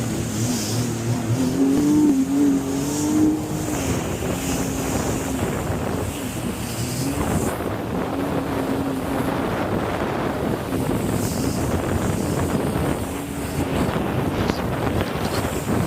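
Jet ski engine running at speed, its pitch wavering up and down and strongest in the first few seconds, with wind buffeting the microphone.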